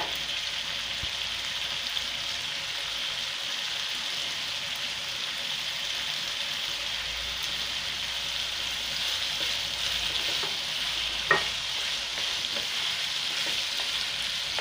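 Chicken pieces frying in oil in a kadai, a steady sizzling hiss, with a spatula stirring through them near the end. One brief sharp knock about eleven seconds in.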